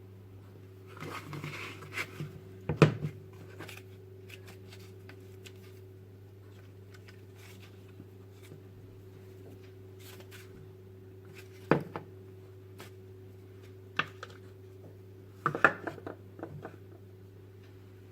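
Household handling sounds: a soft rustle, then a few sharp knocks and clicks of objects being set down or handled, the loudest about three seconds in and a small cluster near the end, over a steady low hum.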